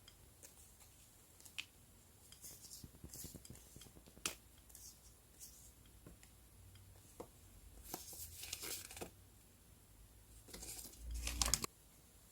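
Paper and sticker sheets being handled while a journal is decorated: scattered light clicks and taps and short bouts of paper rustling and peeling, with a louder rustle near the end.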